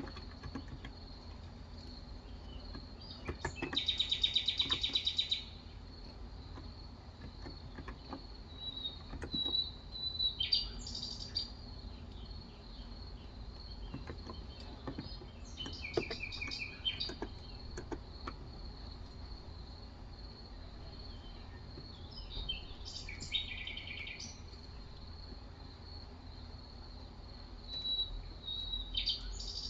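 Birds singing in short phrases every several seconds, the loudest a fast trill about four seconds in, over a steady high insect drone. Occasional soft keystrokes from a Cox Endeavor capacitive keyboard.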